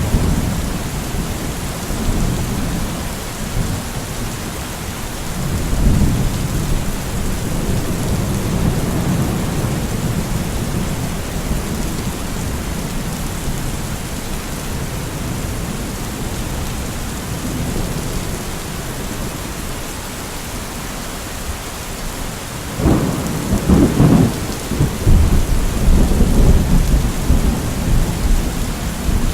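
Steady heavy rain with rolling thunder: rumbles at the start and about six seconds in, then a louder peal of thunder breaking about 23 seconds in and rolling on to the end.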